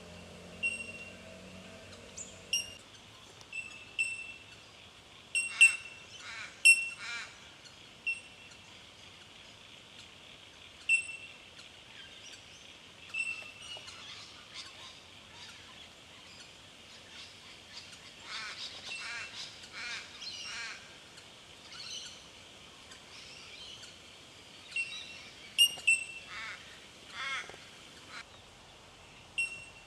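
Bell miners calling: a chorus of short, clear, bell-like 'tink' notes repeated every second or two, overlapping from several birds, with bursts of harsher, scratchier calls a few times.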